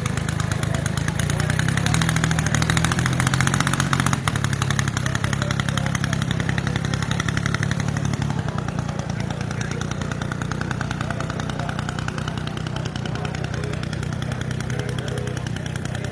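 Engine of a giant-scale RC Strega P-51 racer running steadily on the ground, swelling a little a couple of seconds in and then settling to an even run.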